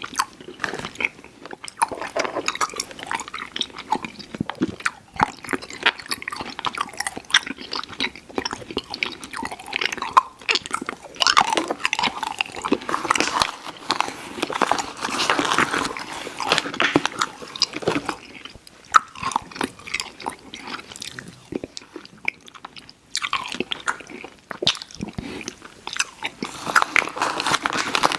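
Close-miked mouth sounds of a person chewing soft, chewy sour candy: dense wet smacking and small clicks, pausing briefly a couple of times.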